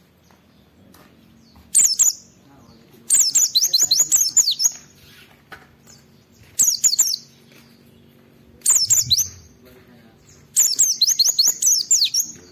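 A white-eye (pleci) singing in bursts: five separate runs of rapid, high, sliding chirps, the longest near the end, with short pauses between them. This is the loud, sustained 'gacor' song that keepers play to set other white-eyes singing.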